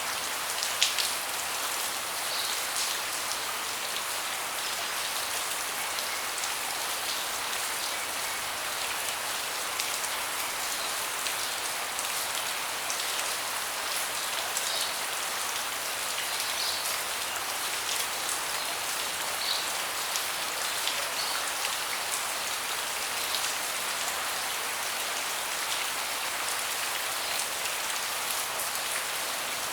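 Steady rain falling on a deck: an even hiss with scattered louder drops, one sharper drip about a second in.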